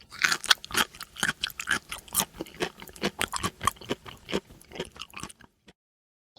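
An animal chewing and crunching food, a fast irregular run of crunches at about four a second, stopping about five seconds in.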